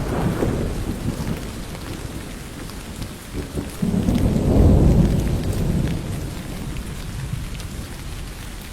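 Steady rain with scattered drops, and thunder: a rumble fading in the first seconds, then a second, louder roll swelling about halfway through and dying away.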